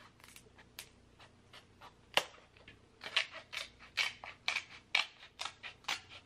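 King crab leg shell being cut and cracked open close to the microphone: scattered sharp clicks, one loud crack about two seconds in, then a run of crisp snaps about three a second.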